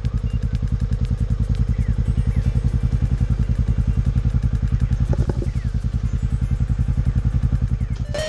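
Cruiser motorcycle engine running at a steady cruise, an even, rapid low throb of exhaust pulses.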